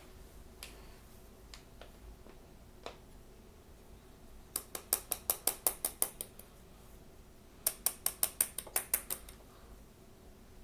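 Small hard plastic pieces clicking while a blind-box toy and its packaging are handled. A few separate clicks come first, then two quick runs of sharp clicks, each about a second and a half long at roughly six clicks a second.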